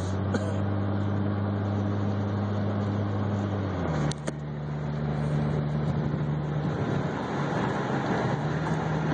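Twin-turbo 1JZ-GTE inline-six in a Lexus SC300 running steadily while the car drives. About four seconds in the engine note drops to a lower steady pitch, with a short click at the change.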